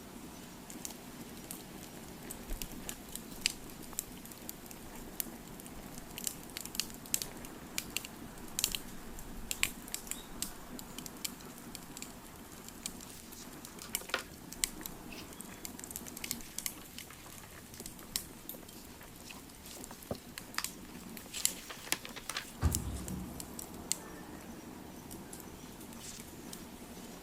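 Wood fire crackling: irregular sharp pops and snaps over a low steady rumble, with one dull thump late on.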